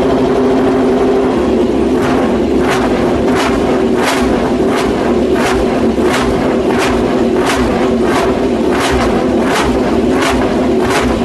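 Honda RC213V's 1000cc V4 MotoGP engine idling steadily. From about two seconds in, a short sharp tick repeats about every two-thirds of a second over the idle.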